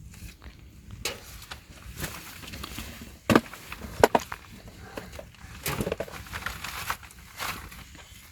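Firewood being handled and broken: rustling and scraping of sticks, with a few sharp cracks, the loudest about three and four seconds in.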